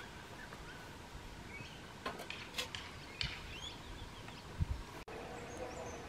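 Wild birds giving short chirps in the background, with a few sharp clicks. A dull low thump comes about four and a half seconds in.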